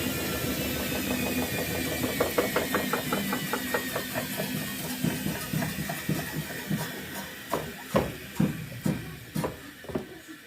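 Thomson washing machine coming down from a spin: the motor's whine falls in pitch, then the drum knocks in a quick regular run that slows down, about five knocks a second slowing to about two, and stops near the end.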